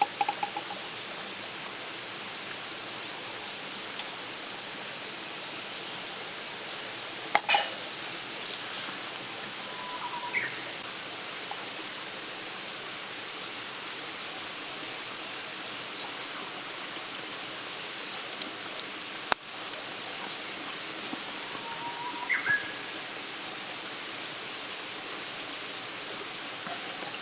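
Steady hiss of outdoor night ambience with a few sharp campfire crackles, the loudest about seven seconds in. Twice, around ten and twenty-two seconds in, there is a short rising squeak.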